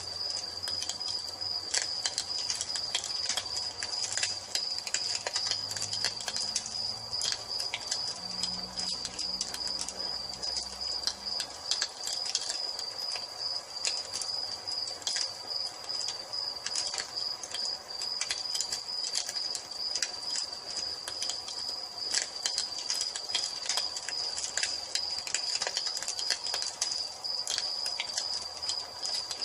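Wood fire crackling with irregular sharp pops, over a steady high-pitched trill of crickets.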